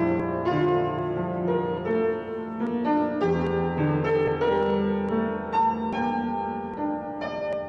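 Piano playing a slow piece of sustained chords with a melody line, a new note struck about every half second.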